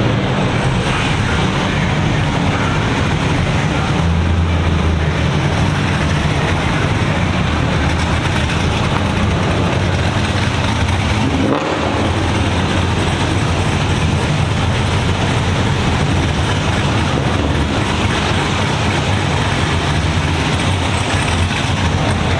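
Car engine running steadily with a low hum.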